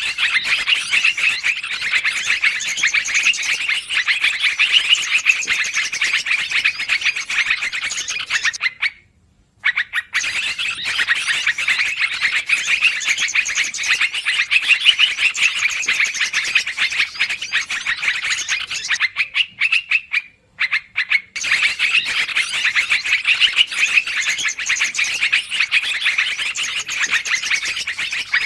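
Yellow-vented bulbul (trucukan) calls played as a bird-lure recording: dense, rapid, noisy chattering in three long bouts, with short breaks about a third and two thirds of the way through.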